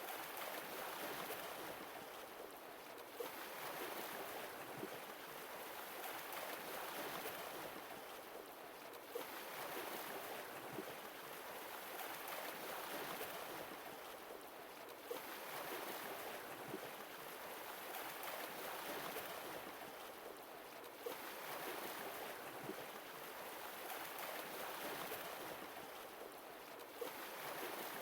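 Sea waves washing ashore in a slow, even rhythm, each wave swelling and falling back about every six seconds.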